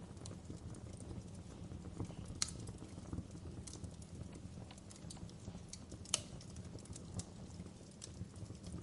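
Wood fire burning in a fireplace: a steady low rumble of flames with irregular crackles and pops, two of them sharper and louder, about two and a half and six seconds in.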